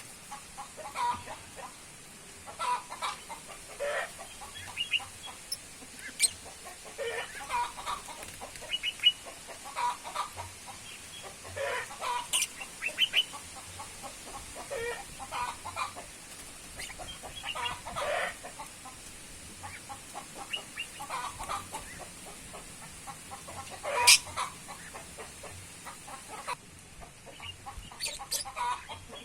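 Birds calling in runs of short clucking notes, with a few sharp, louder calls; the loudest comes about 24 seconds in.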